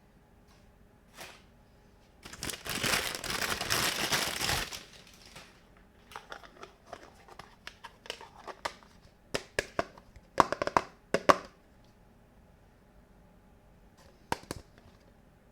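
Crinkling of packaging, about two seconds long, followed by a scatter of light clicks and taps from small plastic toy kitchen pieces being handled and set down.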